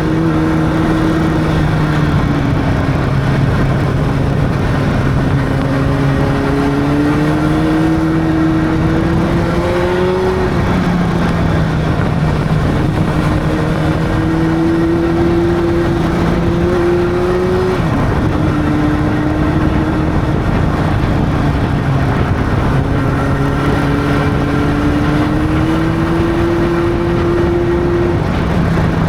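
Honda CB600's inline-four engine pulling at a relaxed pace under wind and road noise, its note climbing slowly and then dropping sharply at upshifts, about three times.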